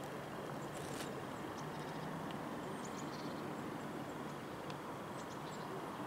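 Outdoor ambience: a steady background hiss with a few short, high bird chirps scattered through it.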